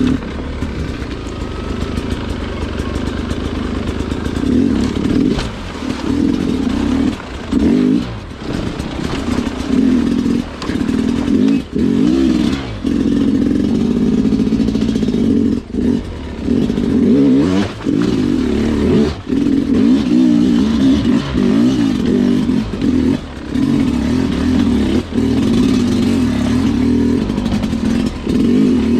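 Two-stroke Sherco dirt bike engine pulling through a slow, technical trail section, the throttle worked on and off so that the engine note drops out briefly a dozen or so times and picks up again.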